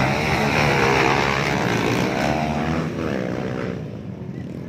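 Motocross dirt bike engines revving and riding by, their pitch rising and falling, dying down about three and a half seconds in.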